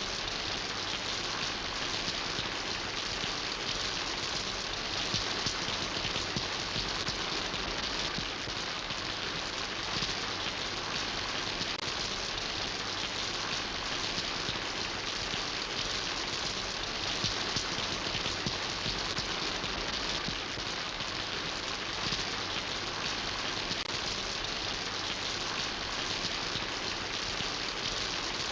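Steady rain falling, an even hiss of many drops hitting surfaces with no let-up.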